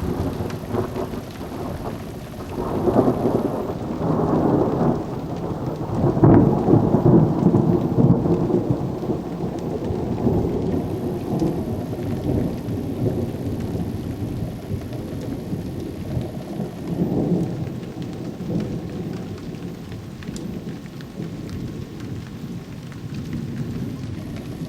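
Thunder rolling and rumbling in long swells, loudest a few seconds in and fading away, over steady rain falling.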